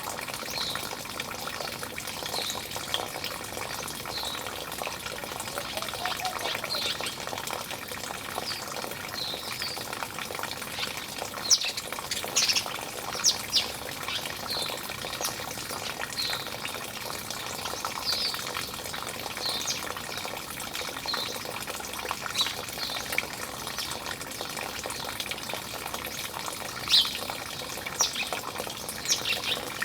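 Small birds chirping over a steady rush of running water: short high chirps about once a second, with a few louder, sharper calls in the middle and near the end.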